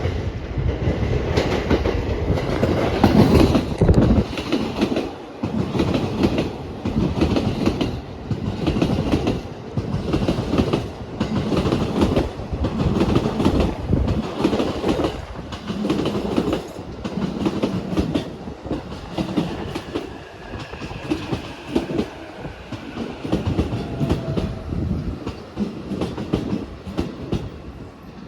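Wheels of an E231-1000 and E233-3000 series electric commuter train clacking over rail joints at low speed, a regular clickety-clack of clusters about once a second as the bogies pass each joint. A faint falling whine comes in about two-thirds of the way through.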